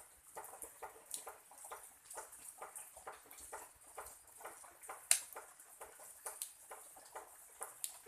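Irregular pattering of raindrops dripping, several small ticks a second, with one sharper click about five seconds in.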